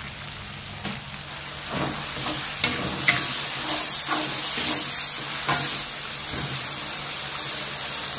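Chili sambal sizzling steadily in hot oil in a metal wok while a metal spatula stirs it, scraping and clinking against the pan. The stirring is loudest in the middle, with several quick strokes.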